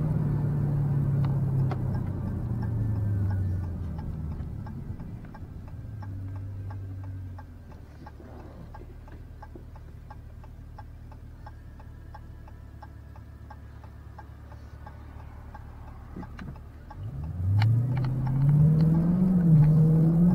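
In-cabin sound of a 2017 Dodge Challenger SRT392's 6.4-litre HEMI V8. The engine note falls as the car slows over the first few seconds, then settles to a low idle while a turn signal clicks about twice a second. About seventeen seconds in, the engine revs hard and rises sharply in pitch under full acceleration.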